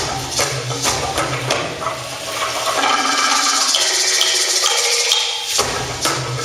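Live traditional percussion music with evenly spaced shaken and struck beats. About three seconds in, the beat gives way to a continuous hissing shake with a few high tones above it, and the rhythm returns near the end.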